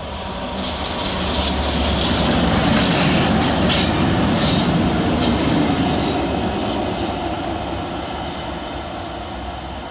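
A Class 67 diesel locomotive passing through with two Class 92 electric locomotives in tow, its EMD V12 two-stroke diesel running. The engine and wheel noise swell to a peak about three seconds in, with wheels clicking over the rails, then fade away.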